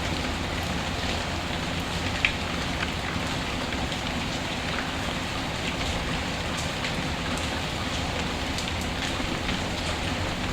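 Steady rain mixed with a crackling fireplace: an even wash of rain with scattered sharp ticks and pops, the loudest pop about two seconds in.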